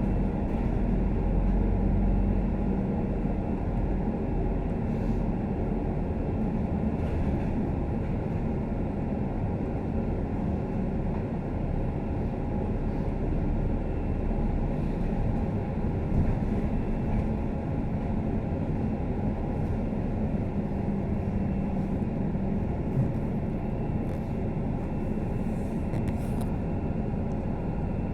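Scania K310UD double-decker bus under way, heard from inside the cabin: a steady engine and road rumble, with a couple of light knocks from the body.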